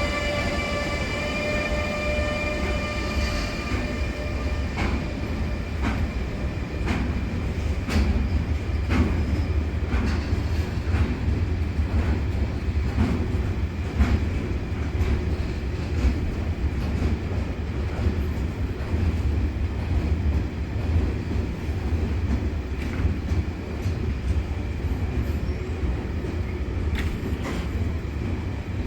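Freight train rolling through the station: a steady low rumble of wagons with irregular clacks as the wheels cross rail joints. A pitched electric whine from the ÖBB Taurus locomotive fades away in the first couple of seconds.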